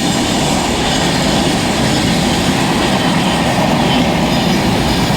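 Mumbai suburban local train (electric multiple unit) running, a steady, loud rumble of wheels and carriages on the track.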